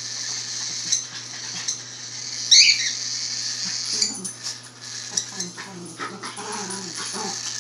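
Five-week-old cockatiel chick begging for food: a steady raspy, hissing begging noise, with one louder chirp about two and a half seconds in.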